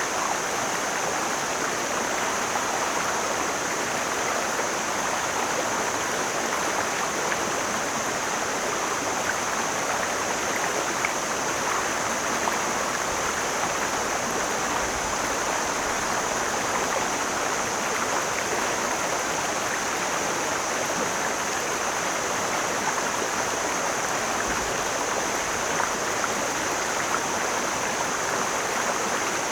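Mountain stream flowing over rocks: a steady, even rushing of water that keeps up at the same level throughout.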